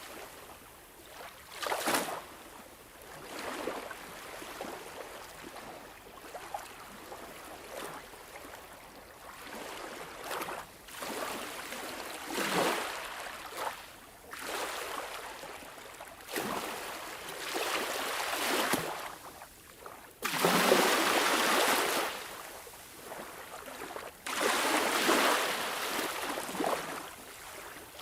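Sea waves washing in and drawing back, in irregular surges of hissing surf a second or two apart. The two biggest surges come about two-thirds of the way through.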